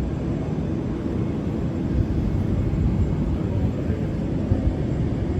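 Steady low rumble of jet airliners on the airport apron, heard in the open air.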